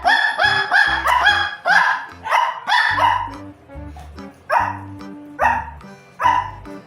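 A small dog barking: a quick run of high-pitched barks, then three more at intervals of about a second, over background music.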